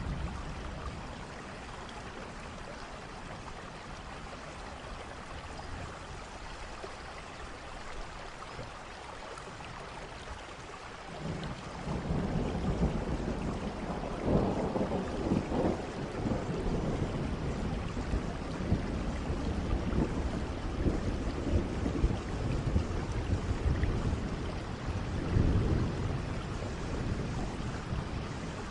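Steady rain falling, then about eleven seconds in a long roll of thunder breaks in and rumbles on, swelling a few seconds later and again near the end.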